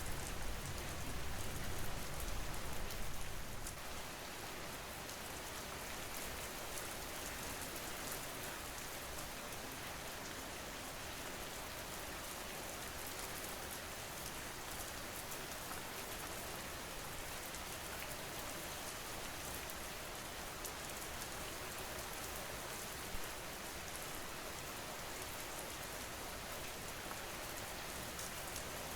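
Steady rain falling, an even hiss. A low rumble under it fades away about four seconds in.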